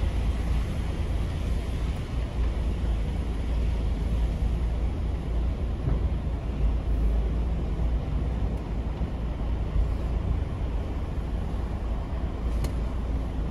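Semi truck's diesel engine running with a steady low rumble, heard from inside the cab while the tractor-trailer is driven.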